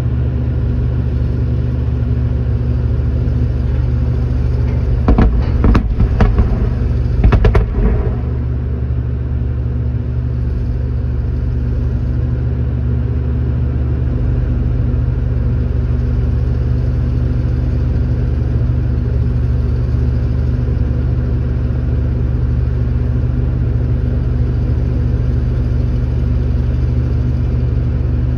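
A vehicle engine running with a steady low drone, broken about five to eight seconds in by a quick cluster of loud blast bangs from the blasting works, the last one the loudest.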